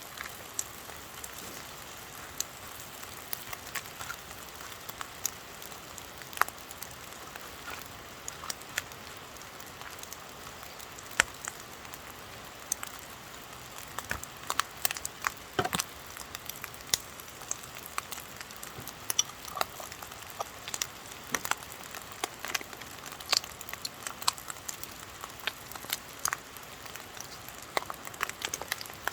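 Fried rice sizzling in a wok over a wood campfire: a steady hiss with frequent sharp crackles and pops, which come thicker in the second half.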